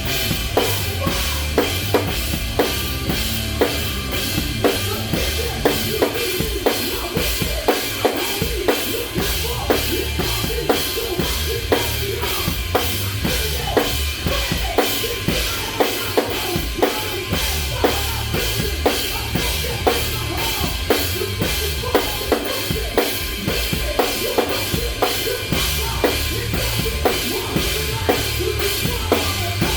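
Live rock band playing an instrumental passage: a drum kit hammering a steady beat of snare and bass-drum hits, about two to three a second, over distorted guitar and bass.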